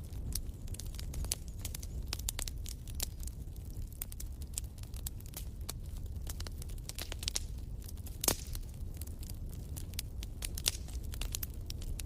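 Fireplace fire crackling: quick irregular snaps and pops over a steady low rumble, with one sharper pop about eight seconds in.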